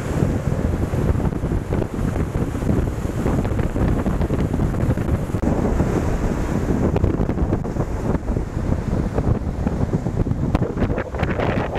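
Strong wind buffeting the microphone, a dense low rumble, over the sound of large waves breaking on the shore.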